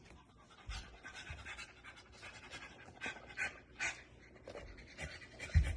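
A dog panting in quick, uneven breaths, with a low thump near the end.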